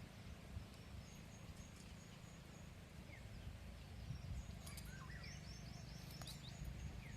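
Faint bird calls: short high chirps and quick falling whistles, busier in the second half, over a low steady rumble.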